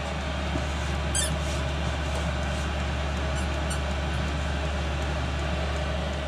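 Hcalory diesel air heater running, its blower giving a steady hum and rush of air. A brief high squeak about a second in.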